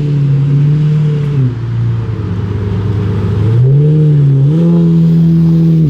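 Car engine running loud and close at held revs. Its pitch drops about one and a half seconds in, then climbs back up in two steps past the middle and holds there.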